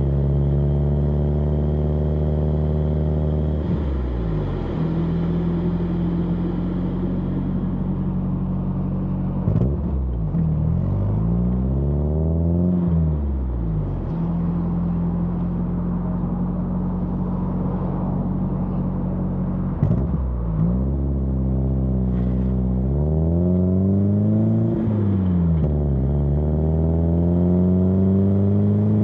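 Exhaust of a BMW E30 316i's four-cylinder engine heard close at the tailpipe while driving. It drones at a steady pitch for long stretches, and its pitch drops and climbs again several times as the car changes gear and speeds up. Two brief knocks come about ten and twenty seconds in.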